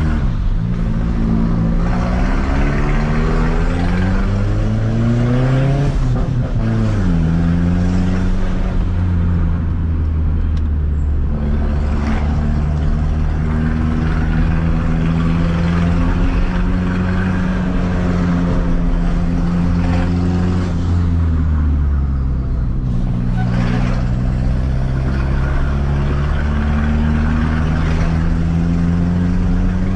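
Toyota Starlet EP82's converted 4E-FTE turbocharged four-cylinder engine driving the car under acceleration. The engine pitch climbs for several seconds and falls sharply at a gear change about seven seconds in. It then holds nearly steady, falls again about two-thirds of the way through, and rises slowly once more.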